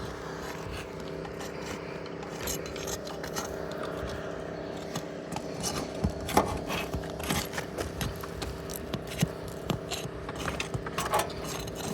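A flat tool scraping and clicking against asphalt roof shingles as it is worked under them to break the glue seal and lift them. There are irregular scrapes and taps, more frequent in the second half, over a steady low hum.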